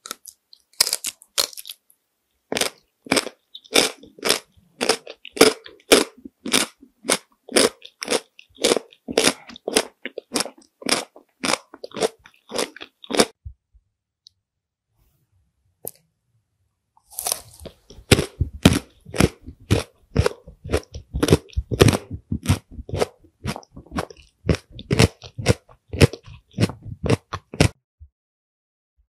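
Chewing crunchy shaped snacks: a long run of rapid, sharp crunches, a pause of a few seconds about halfway, then another run of crunching.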